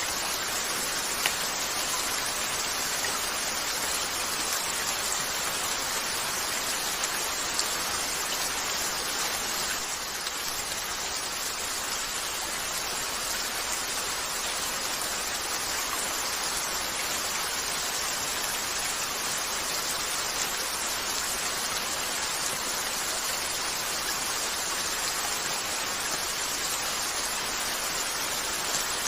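Steady rain falling on a window, an even hiss, with a few sharp pops from a crackling wood fire.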